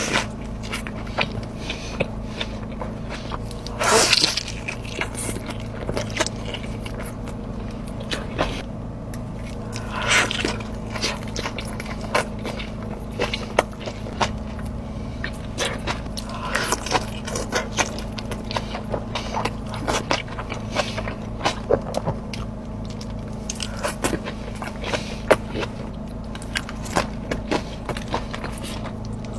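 Close-miked eating of In-N-Out food: bites and chewing with many small wet clicks and crunches, and a few louder crunchy or rustling bursts several seconds apart, over a steady low hum.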